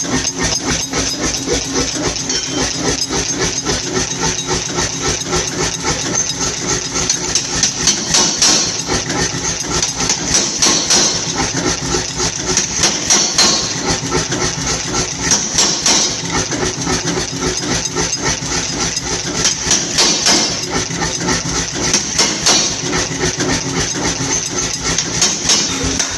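Metal being forged: fast, even hammer blows on metal with louder runs every few seconds, over a steady machine hum.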